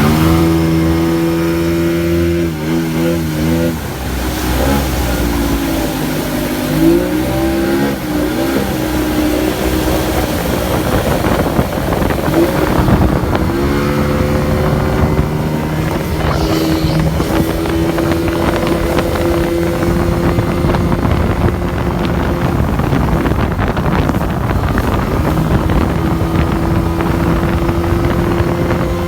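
Motorboat engine running, its pitch dipping and wavering a few seconds in and climbing back up to a steady note around halfway, with wind noise on the microphone.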